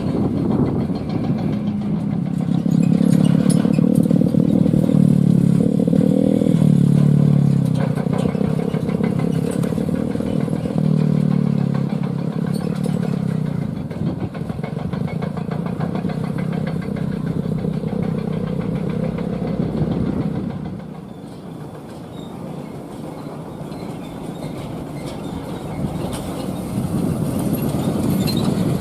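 A heavy truck's diesel engine running under load, its pitch stepping up and down. It grows loud about three seconds in and drops away noticeably about twenty seconds in.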